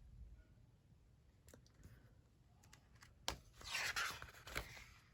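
Paper of a sticker book being handled: a tap, then about a second of scratchy paper rustling near the end, ending with another tap.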